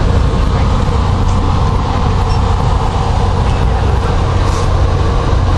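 Passenger train running on the rails, heard from inside the coach: a steady, low rumble.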